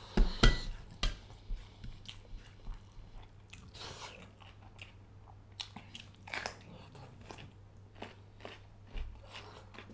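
Close-up mouth sounds of a man chewing a mouthful of rice and fish curry: irregular wet smacks and crunches, the loudest about half a second in.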